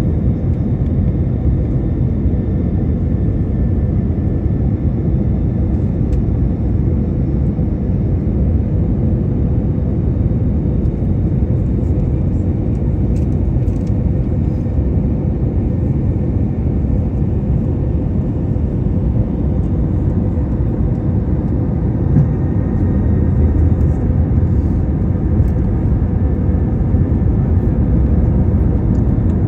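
Airliner on approach for landing, a steady low engine and airflow rumble with a faint steady hum, and a faint higher whine that comes in over the last several seconds.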